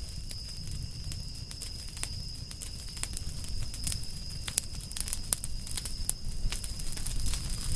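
Campfire of burning firewood crackling, with frequent sharp irregular pops and snaps over a low steady rumble of the flames.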